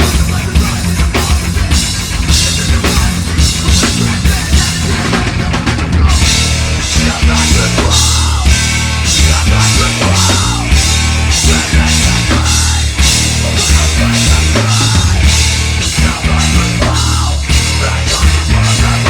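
Heavy metal band playing live and loud, with dense kick and snare drumming over heavy bass. The full band comes back in hard about six seconds in.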